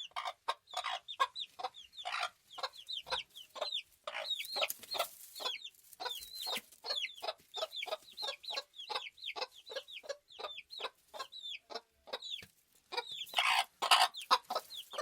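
A flock of farm chickens clucking, many short clucks overlapping in a constant chatter. Near the end the calls get louder and denser for a moment.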